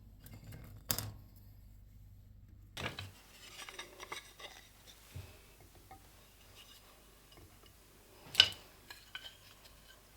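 Scattered knocks and clinks of household items being handled in a small room, with one sharp clack about eight seconds in, the loudest.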